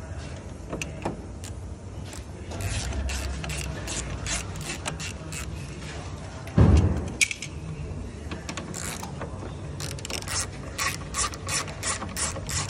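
Clicks and clunks of hand tools and parts being worked while a truck headlight is removed. There is one heavy thump about six and a half seconds in and a run of quick clicks near the end.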